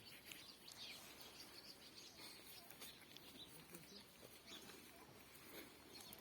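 Near silence outdoors, with faint, scattered bird chirps.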